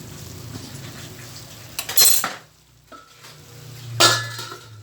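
Metal utensils and cookware clanking, with two loud knocks about two and four seconds in, the second leaving a brief ring. A steady low hum underneath stops about halfway through.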